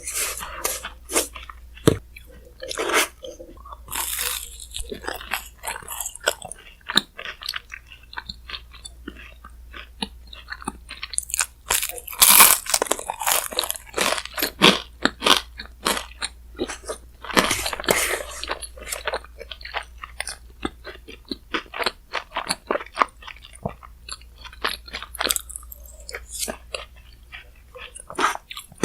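Close-miked chewing and crunching of a Chic Choc shaved-ice bingsu: a dense, irregular run of crisp crunches and bites, heaviest in a few spells.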